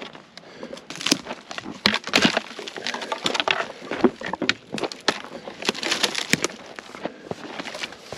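Footsteps crunching through dry brush, with twigs cracking and snapping underfoot at an uneven pace.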